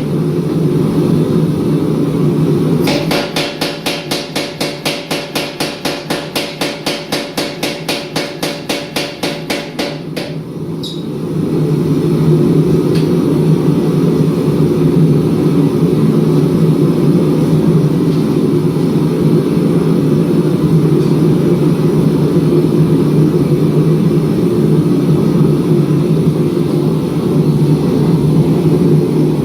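Rapid, evenly spaced hammer blows on steel, about five a second for some seven seconds, over a steady low roar. After the blows stop, the roar runs on alone and louder.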